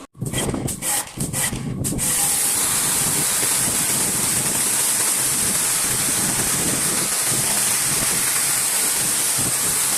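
A few knocks, then from about two seconds in a loud, steady hiss like air or spray escaping, strongest in its high register.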